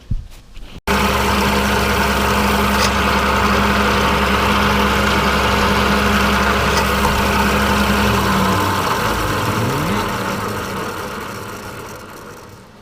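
Machine tool spindle running steadily with a hum while a 0.501-inch reamer is run through a bore to open up a too-tight fit; about two-thirds of the way through the motor is switched off and the sound fades as the spindle winds down.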